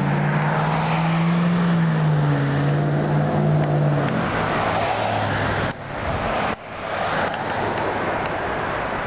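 A car engine running, a steady low hum that drifts slowly in pitch for the first few seconds, then gives way to a broad road-and-engine noise. The sound cuts off abruptly twice near the middle.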